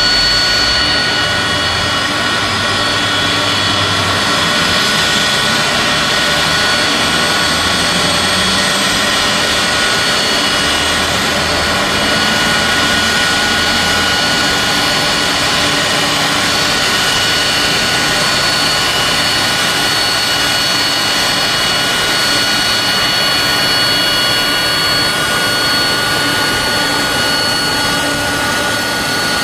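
Boeing 767-300ER jet engines running steadily with a high whine over an even roar.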